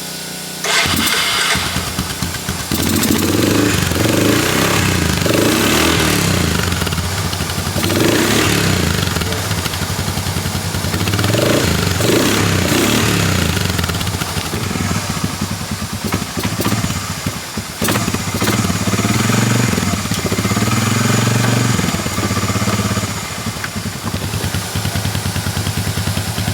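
ATV engine running and being revved several times, its pitch swelling and falling back, then settling to a steadier idle near the end. The engine is running again after a no-start fault.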